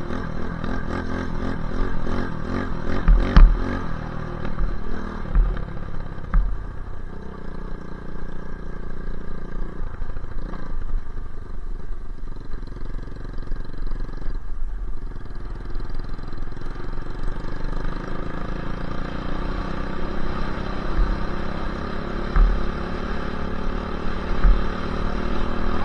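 Dirt bike engine running under way, its pitch shifting up and down with the throttle. It eases off briefly twice, about ten and fourteen seconds in, with occasional low thumps.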